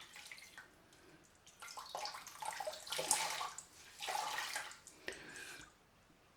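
Face cloth being rinsed in water and wrung out: water splashing and running off in four or so short bursts, dying away about a second before the end.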